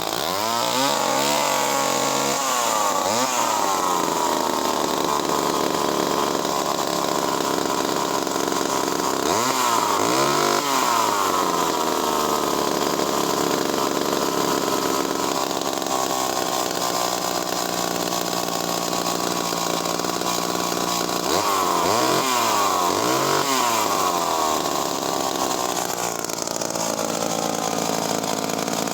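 Vintage Skilsaw 1644 two-stroke chainsaw of nearly 70cc running after a pull start, its throttle blipped up and let back down about four times: at the start, about ten seconds in, and twice in quick succession about two-thirds of the way through. It runs strongly at the top end, but at lower revs it runs unevenly, which the owner takes for misfiring.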